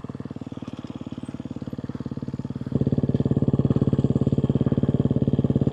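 Dirt bike engine idling with an even, rapid putter. About three seconds in it suddenly gets louder and holds at that level.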